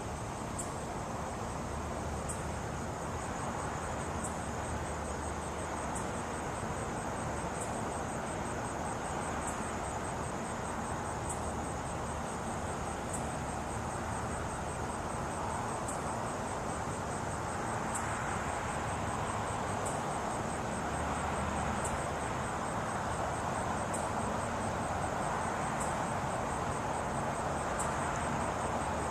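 Night insects calling: a steady high-pitched trill with a sharper chirp repeating about every two seconds, over a steady background rush.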